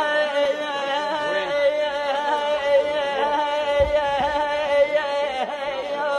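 Arabic religious chanting by a solo voice, with wavering, ornamented notes over a steady held tone, in the style of a lament.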